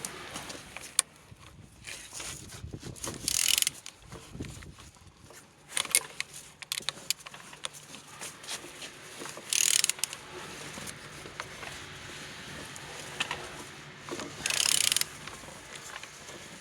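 An engine being turned over by hand with a ratchet wrench: scattered clicks and knocks of the crank and tool, with three short bursts of rapid ratchet clicking as the handle is swung back, about every five seconds. The engine turns freely with compression on all cylinders.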